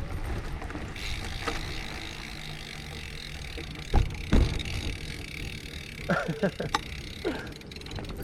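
Wind and riding noise on a GoPro action camera's microphone during a bicycle ride: a steady low rumble, with two sharp knocks about four seconds in and a short run of wavering, squeaky pitched sounds around six seconds.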